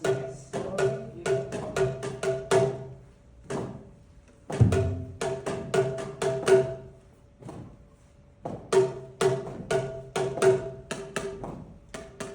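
Boomwhackers (tuned plastic tubes) struck in a quick rhythm, several notes sounding as hollow pitched pops: a repeating ostinato with a solo played over it. The playing breaks off briefly twice, and a heavier low hit comes a little after four and a half seconds.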